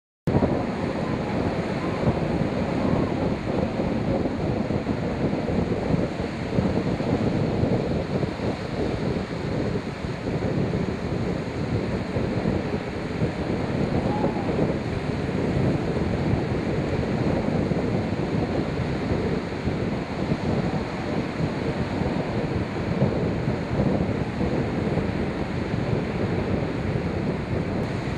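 Wind buffeting the microphone over the steady wash of sea waves, a continuous low rushing noise.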